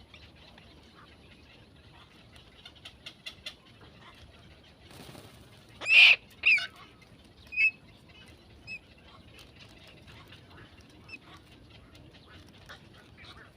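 A bird gives three loud, short, high calls about six to eight seconds in, just after a brief rustle. Faint chirps and small clicks come and go around them.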